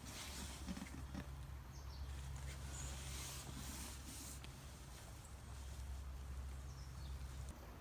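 Quiet woodland ambience under a steady low rumble, with a few faint, short, high bird chirps.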